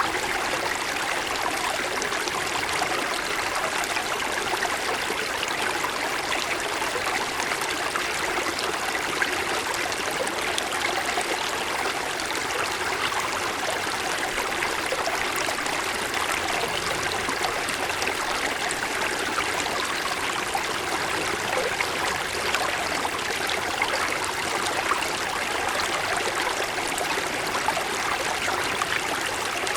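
Small mountain stream flowing and splashing over snow-covered stones, a steady rush of water with fine trickling.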